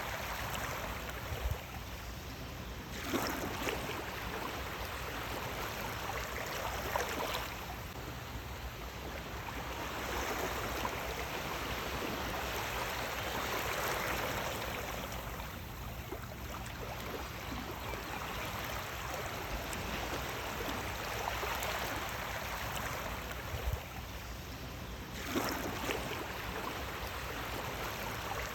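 Sea waves washing onto the shore: a continuous rush of water that swells and recedes every few seconds, with a sharper splash as a wave breaks a few times.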